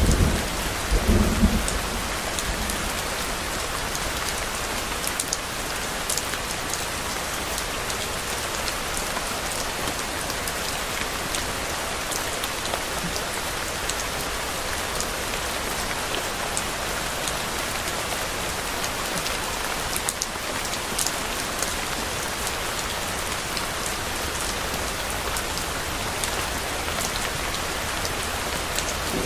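Steady heavy rain falling on a surface, with scattered sharp drop ticks. A low rumble of thunder fades out in the first two seconds.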